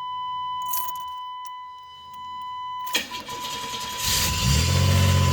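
Steady high warning chime from the dash of a 1989 Chevrolet Celebrity, a click of the key near three seconds in, then its 2.8 V6 cranks and catches about four seconds in and settles into a steady idle.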